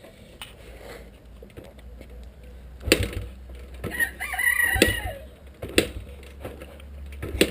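A rooster crows once, a curved call about a second long around the middle. Several sharp knocks come at irregular intervals and are the loudest sounds; no engine is running.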